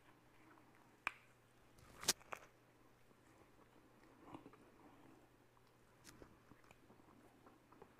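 Quiet chewing and biting into a soft white-bread sandwich of egg, avocado and sausage, with a few sharp mouth clicks; the loudest comes about two seconds in.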